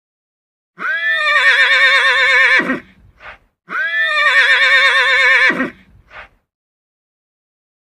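A horse whinnying twice, each a long call of about two seconds with a quavering pitch that drops low at the end, and each followed by a brief faint sound.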